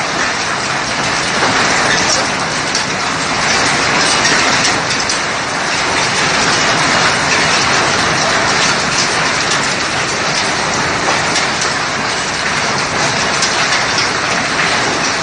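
Hailstones pelting down in a heavy hailstorm: a loud, dense, unbroken clatter of countless small impacts that keeps steady throughout.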